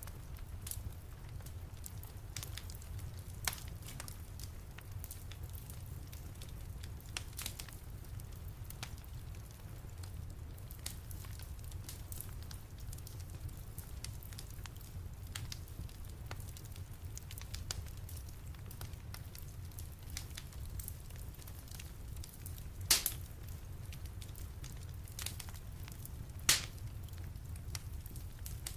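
Wood fire in a fireplace crackling: scattered sharp pops and snaps over a steady low rumble, with two louder pops near the end.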